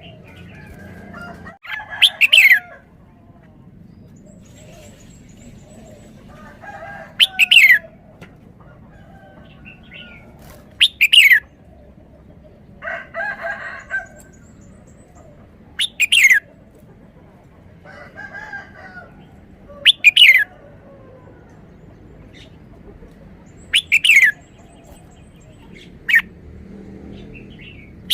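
Red-whiskered bulbul singing its three-syllable song: short, loud, downward-sweeping phrases repeated every few seconds, with softer calls in between.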